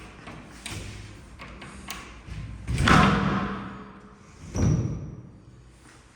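A series of knocks and thuds: two light knocks, then a heavy thud about three seconds in and another a moment before five seconds, each dying away over about a second.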